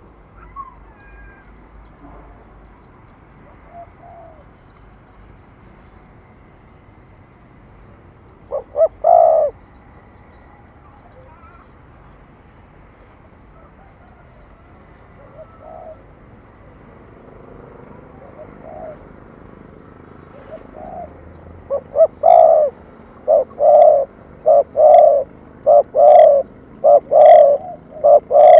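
Spotted dove cooing in the rhythmic 'thổ thúc gù' style: a loud double coo about nine seconds in, a few faint coos later, then from about two-thirds of the way through a fast run of short, evenly spaced coos.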